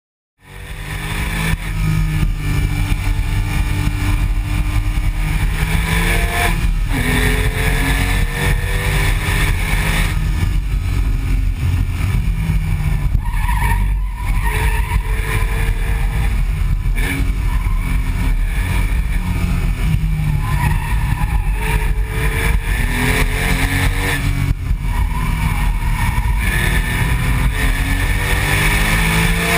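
Porsche 997.1 911 flat-six exhaust, heard from the rear bumper, pulling hard through the gears: the pitch climbs again and again with a short break at each gear change. A rasp runs through it, which the owner is unsure is from the exhaust or only recording noise.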